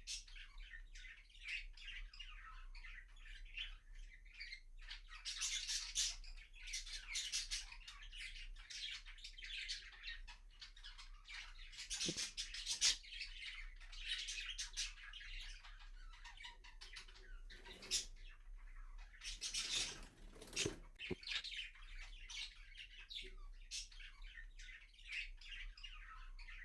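Budgerigars chattering and warbling continuously in quick, busy runs of chirps, with louder stretches several times.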